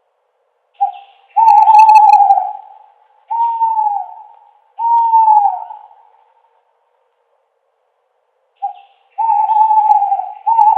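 Owl hooting in two series: each starts with a short note, then long hoots follow, several of them dropping in pitch at the end. There is a pause of about two seconds between the series.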